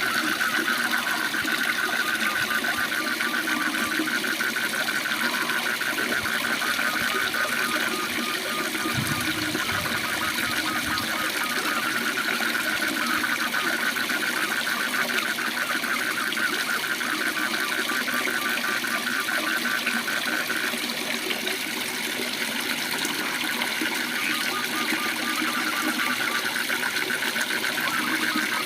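Waterfall's steady rush with frogs calling in a rapid pulsed trill, so fast it runs together almost like a buzz, thinning briefly about three-quarters of the way through.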